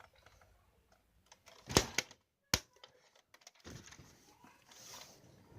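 A few sharp clicks and knocks of handling noise, the loudest a quick cluster about two seconds in and a single click just after, with faint rustling between.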